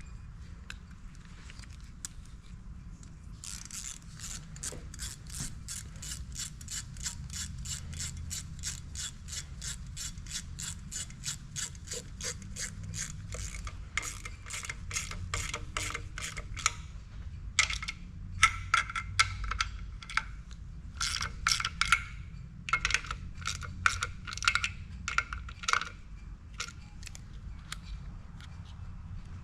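Hand ratchet wrench clicking as it is worked back and forth on engine fasteners. It gives an even run of about three clicks a second for a while, then irregular groups of louder clicks in the second half.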